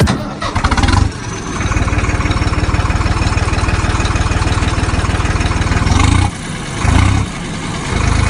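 An engine running with rapid, even firing pulses. It eases off briefly twice near the end before picking up again.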